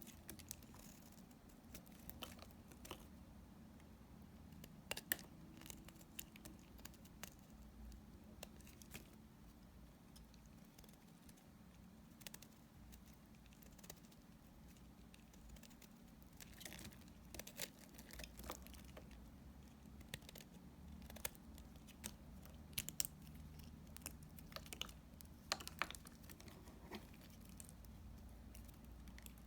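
Knife cutting through leftover pieces of soap: faint, scattered crisp crackles and clicks, with a few sharper ones coming in clusters.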